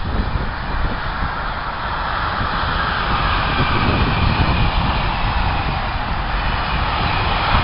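A train passing close by: a steady low rumble and rolling noise, swelling a little after the first couple of seconds.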